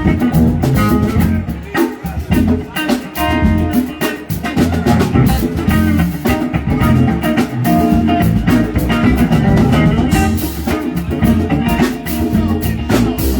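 Live band playing an instrumental passage: electric guitar over bass and drum kit with a steady beat.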